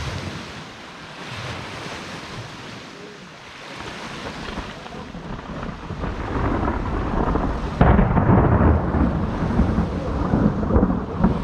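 Rain falling while thunder builds into a low rumble, then a sudden loud thunderclap about eight seconds in that rolls on as heavy rumbling thunder.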